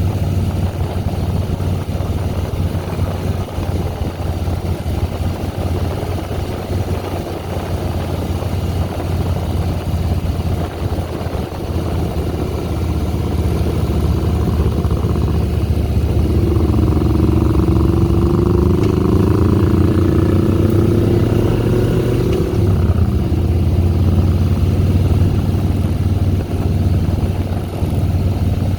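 2010 Harley-Davidson Softail Deluxe's air-cooled V-twin engine running under way, with a steady low engine note. A slowly rising whine joins in for several seconds past the middle.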